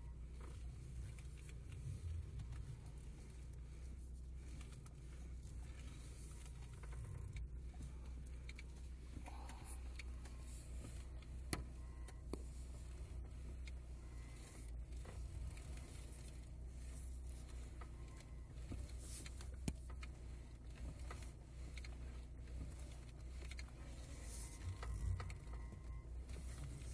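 Lada Granta running at idle with a steady low hum, over which the electric power steering gives occasional faint crunching clicks, two of them sharper than the rest; the owner takes this for metal knocking on metal inside the steering booster.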